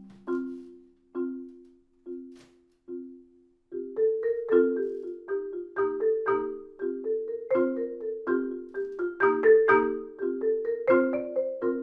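Adams marimba played with mallets: a soft chord struck repeatedly, about one stroke a second and growing quieter, then, nearly four seconds in, a quicker flowing line of notes over the chords begins.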